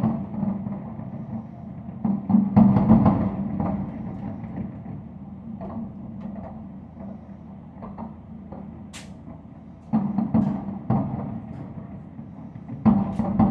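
Aerial fireworks shells bursting in a series of heavy booms a few seconds apart, each trailing off in a low rumbling echo. The loudest booms come at the start, about two and a half seconds in, around ten seconds in and near the end.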